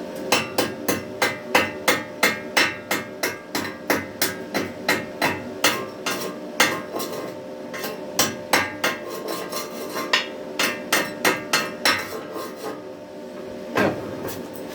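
A chipping hammer striking a fresh stick weld on steel, knocking off the slag: quick, even blows about three a second, with a metallic ring. The blows stop a little before the end, then one last strike.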